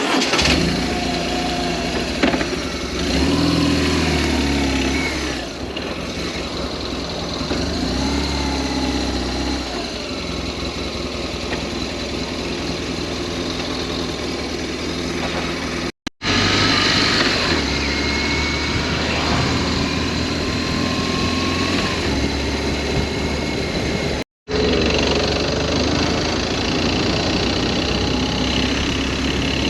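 BMW R1200S boxer-twin engine running as the motorcycle is ridden, its pitch climbing and falling repeatedly with throttle and gear changes, over a steady rush of wind and road noise. The sound cuts out completely twice for a moment, about halfway through and again about three quarters of the way through.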